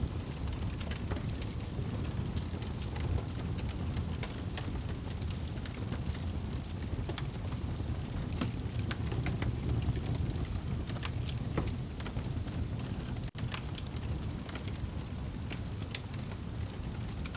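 Crackling fire over steady rain: a constant low rumbling haze with scattered sharp pops and crackles. The sound cuts out for an instant about 13 seconds in.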